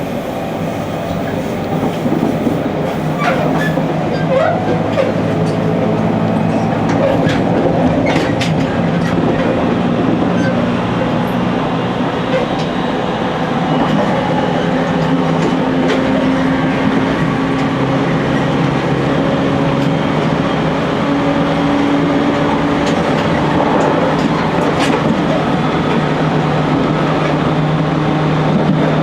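Running sound of a JR Kyushu 813 series electric multiple unit heard from its driving cab at speed: the traction motors whine in steady tones that glide slowly, over rumble and scattered clicks of the wheels on the rails.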